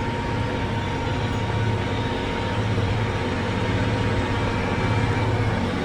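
Versatile 875's straight-piped Cummins 855 diesel running steadily under load as the tractor pulls an anhydrous ammonia cultivator. A thin, steady whine sits over the engine and fades about four seconds in.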